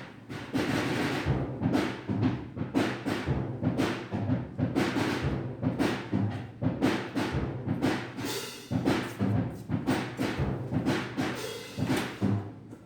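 Percussive music: low drum strikes coming in an irregular run, several a second. It starts suddenly.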